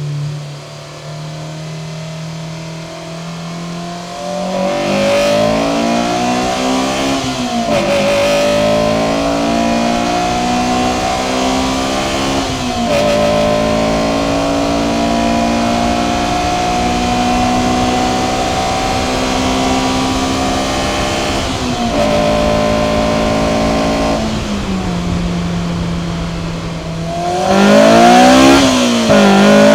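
Honda S2000's inline-four with an HKS 75 mm catback exhaust pulling at wide-open throttle: the engine pitch climbs steadily through each gear and drops sharply at each upshift, several times. Near the end it gets louder, with quick rises and falls in pitch.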